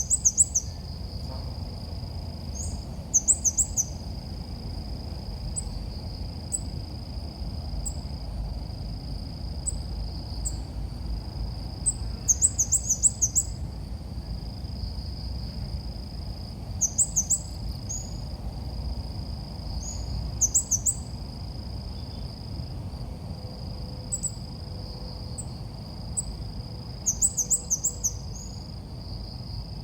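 Red-whiskered bulbul calls: short bursts of quick, very high chirps every few seconds, played as a lure. A steady high whine and a low rumble run underneath.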